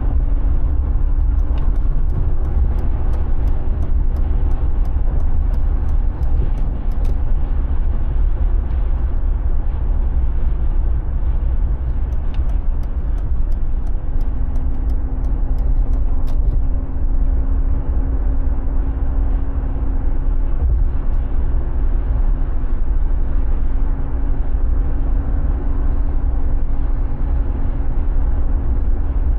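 Mercedes G 36 AMG's 3.6-litre straight-six running under way: a steady low rumble whose engine note shifts in pitch. Twice, a run of light, evenly spaced ticks sounds over it, about two a second.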